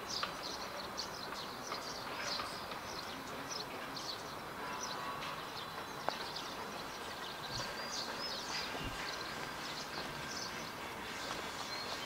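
Outdoor ambience with many short bird chirps and calls throughout, over a steady background hiss.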